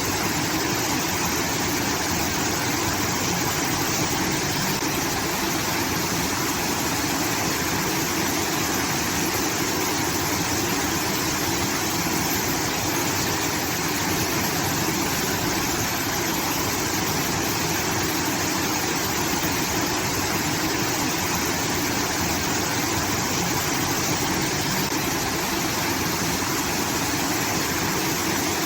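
Water from a rice-field irrigation outlet rushing and pouring steadily, like a small waterfall.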